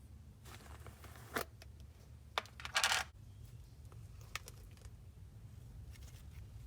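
Clay-based slime being handled and played with: a few soft sticky clicks and rustles, with one louder brief squish about three seconds in, over a faint low hum.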